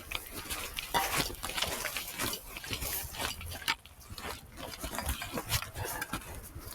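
Irregular rustling, scuffing and crunching handling noise from an audio recorder carried on someone walking: footsteps and clothing rubbing against the recorder.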